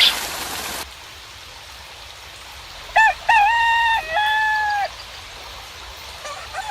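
A rooster crows once about three seconds in: a short note, then a long held note that falls away at the end, lasting about two seconds. Before it, a steady rain hiss cuts off suddenly under a second in, and another crow begins right at the end.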